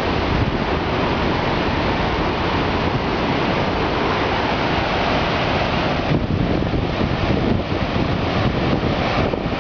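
Steady rushing roar of a large waterfall, with wind buffeting the microphone.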